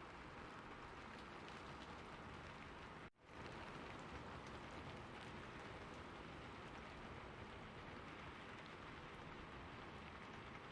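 Steady rainfall, an even hiss of many drops. About three seconds in it briefly cuts out and fades back up.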